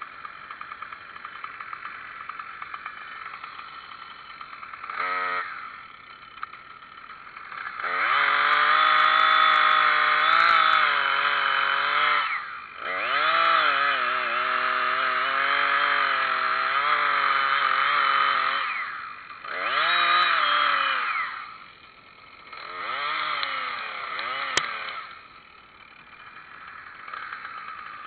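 Chainsaw revving up in five runs, the longest lasting about four to six seconds, its pitch rising and sagging during each run and dropping back to idle between them.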